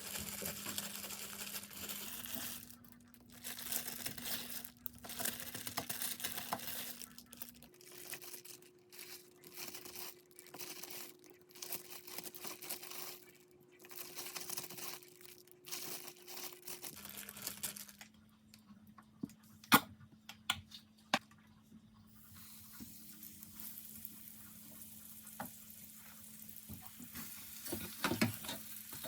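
Kitchen food-prep sounds: packaging rustling and tearing, with a few sharp clicks of utensils or dishes, over a low appliance hum.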